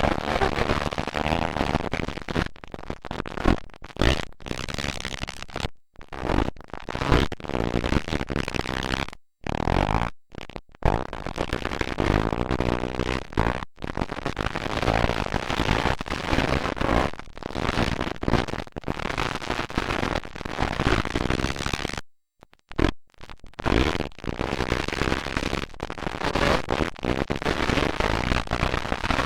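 Several motocross dirt bike engines revving and running hard, their pitch rising and falling as they accelerate and shift, harsh and overloaded on the microphone. The sound cuts out briefly several times.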